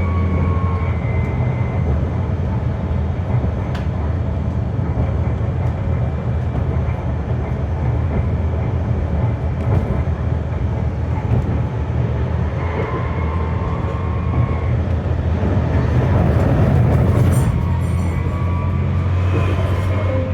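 Berlin GT-type low-floor tram heard from inside while running, with a steady low rumble of wheels and running gear. An electric traction whine comes and goes a few times, and there is one sharp click about four seconds in.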